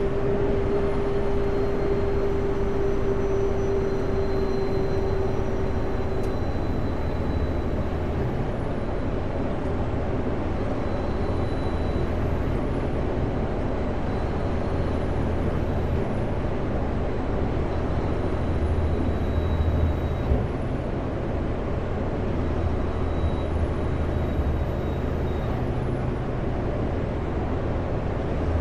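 A Kenworth W900L semi truck's diesel engine drones steadily under road noise as the truck drives along. A steady whine runs for the first several seconds, then stops.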